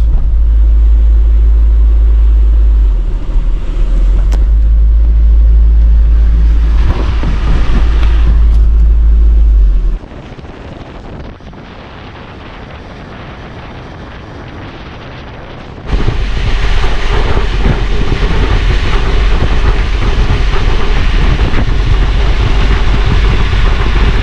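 Heavy wind buffeting the microphone in a moving car in tropical-storm winds, a deep rumble over road noise. About ten seconds in it drops to quieter cabin and road noise, and after about six seconds a loud rush of wind comes back.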